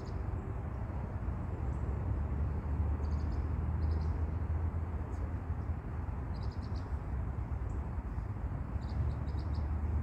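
Steady outdoor background noise, a low rumble with a hiss over it. Short runs of high, quick chirps from small birds come several times, about three seconds in, again near four seconds, around six and a half seconds, and near the end.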